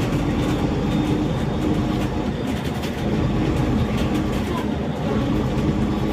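Inside a moving city bus: the engine and drivetrain run with a steady hum that shifts in pitch, over road noise and faint rattles.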